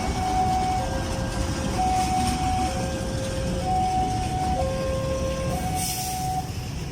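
Two-tone hi-lo warning alarm, a higher and a lower tone taking turns about every second, over a steady low rumble of vehicles or a train; a brief hiss near the end.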